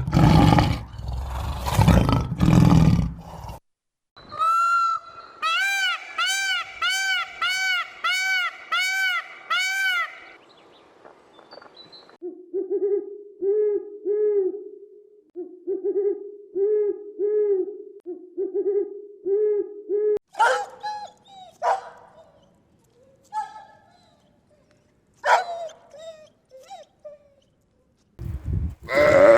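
A series of different animal calls in turn. First the tail of a loud, rough roar, then a run of about ten quick rising-and-falling calls. After that come repeated low hoots in short groups, then a few scattered chirps and clicks.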